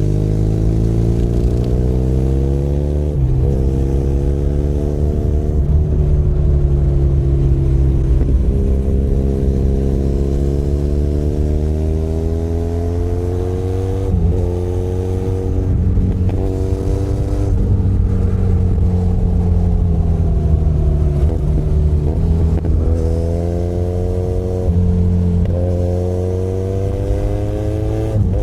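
Benelli Leoncino 500 Trail's 500 cc parallel-twin engine running under way. Its pitch rises as the bike accelerates and sinks as it eases off, with several quick drops in pitch at gear changes.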